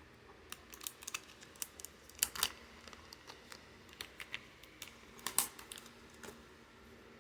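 DVD packaging being handled: a scatter of sharp clicks and crinkles of plastic, loudest in a cluster about two seconds in and again about five seconds in.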